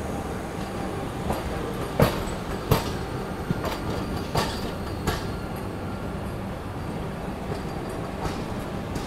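Passenger train running on track, a steady rumble with a few sharp clacks of wheels over rail joints and points about two to five seconds in.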